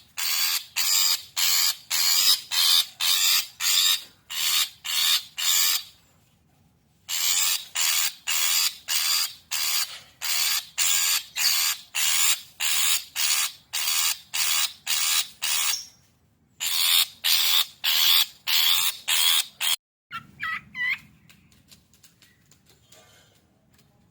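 Long-tailed shrike (cendet) giving harsh, rasping scolding calls, about three a second in long runs, with two brief breaks. It is the agitated 'emosi' calling used as a lure. The calls stop near the end, leaving a few faint thin chirps.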